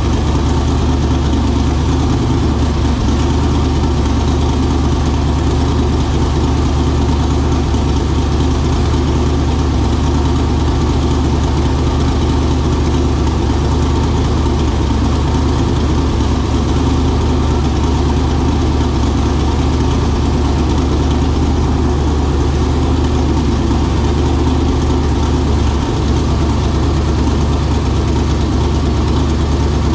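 Twin-turbo Mercury Zephyr's engine idling steadily on its first run after the build.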